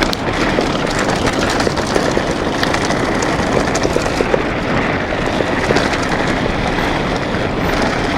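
Steady rushing wind noise on the microphone, with many small clicks and rattles throughout, as during a fast run down a rough trail.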